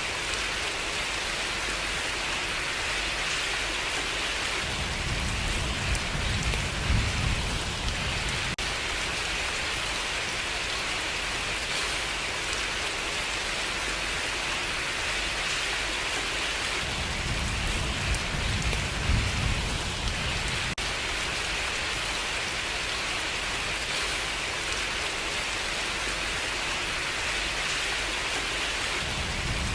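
Steady rain pattering with an even hiss. Twice, about five seconds in and again around seventeen seconds, a low rumble swells for a few seconds, and another begins near the end.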